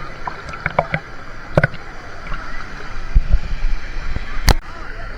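Water sloshing and splashing, with scattered small clicks, a few low thuds around three seconds in and a sharp knock about four and a half seconds in, over a steady background of water-park voices.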